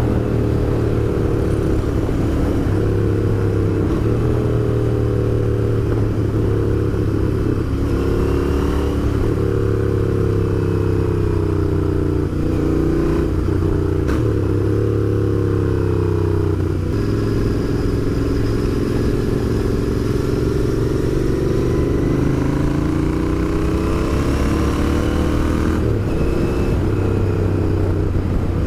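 Royal Enfield Interceptor 650's parallel-twin engine running while riding. Its pitch sinks and climbs with the throttle, with a few brief breaks along the way.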